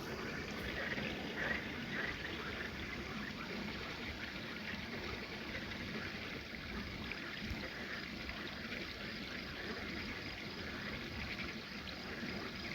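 Steady trickle of running water, like a small stream, with a faint, evenly pulsing insect chirp high above it.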